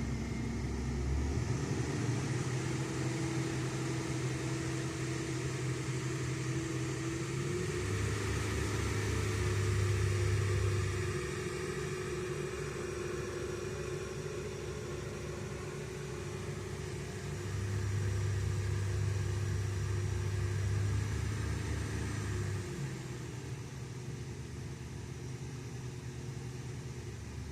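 1983 Buick Park Avenue's engine, still cold, held above idle with a little throttle. Its speed picks up about a second in and swells louder twice before easing back.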